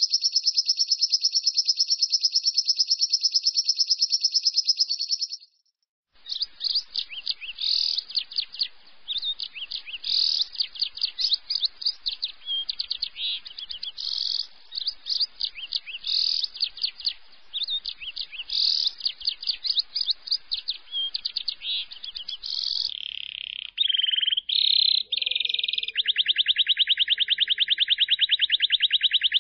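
Lovebird 'ngekek' song: long, very fast trills of high, shrill chirps. A short break about five seconds in is followed by looser, uneven chattering, then another fast, even trill near the end.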